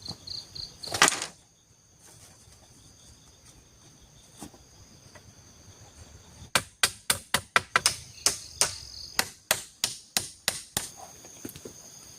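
Blade chopping wood: one hard strike about a second in, then a quick run of about fourteen strikes, roughly three a second. Insects keep up a steady high-pitched drone behind.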